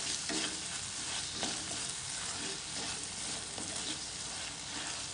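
Chopped onions sizzling in hot oil and Schezwan sauce in a kadhai, with a spatula stirring and scraping against the pan a few times.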